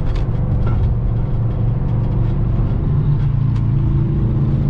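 BMW X5 4.4i's 4.4-litre V8 running steadily while driving, its exhaust's mufflers and resonator deleted, over road noise.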